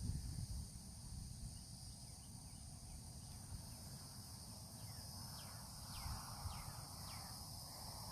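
Steady high-pitched insect chorus with a bird giving a run of quick downslurred whistled notes, most of them in the second half, over a low rumble.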